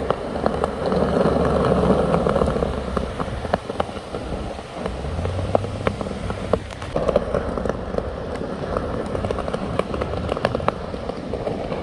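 Skateboard rolling on concrete: a steady rumble from the wheels, broken by many sharp clicks and knocks from pavement joints and the board.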